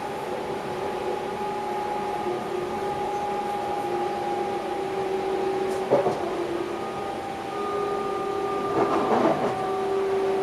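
Electric passenger train heard from inside the driver's cab, running steadily, with a few whining motor tones that drift slowly in pitch. Two short clatters come about six and nine seconds in.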